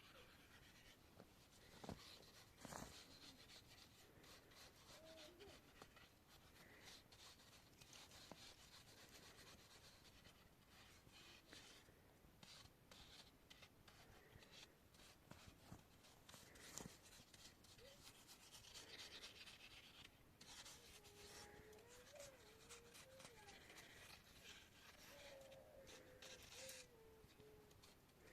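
Faint rubbing and scraping with scattered clicks, as of things being handled. A faint wavering tone comes in during the second half.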